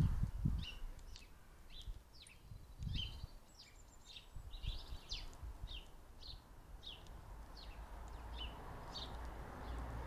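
A small songbird chirping over and over, each note short and falling, about two a second, with low rumbling thumps near the start.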